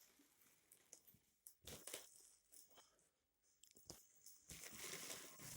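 Faint rustling and crunching of packaging being handled as a box is unpacked, with a few sharper crackles, the clearest near the middle and a longer stretch of rustling near the end.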